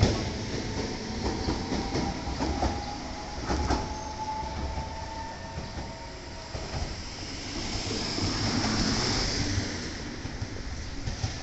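Train running on the rails: a steady rumble with thin wheel-squeal tones and a few clicks of the wheels over rail joints, the sound slowly fading toward the end.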